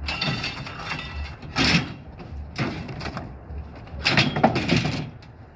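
Scrap being handled: a run of clattering, scraping bursts, about four of them, the longest near the end.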